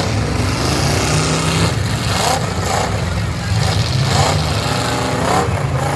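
Several demolition-derby pickup trucks' engines running together, a steady low drone with revs rising and falling at several points.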